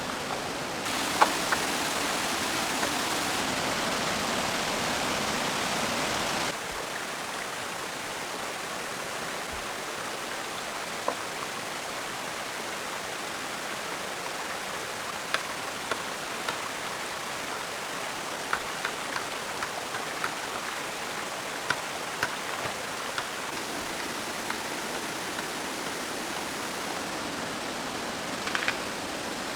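Steady rush of running water, with scattered sharp clicks and taps over it; the rush steps down slightly and abruptly about six seconds in.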